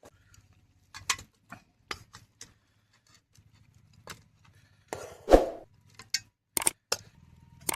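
Cookware and utensils clicking and scraping at irregular intervals, with one longer, louder scrape about five seconds in.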